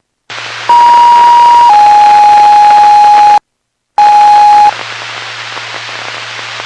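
Police radio alert tones heard through a scanner: a loud steady beep that steps down from a higher to a lower pitch and holds about two seconds, a short break, then a brief second beep at the lower pitch. Radio hiss and hum from the open channel surround the tones.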